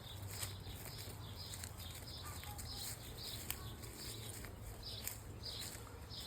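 A bird calling with short high chirps repeated about two or three times a second, over a low steady hum, with a couple of faint clicks.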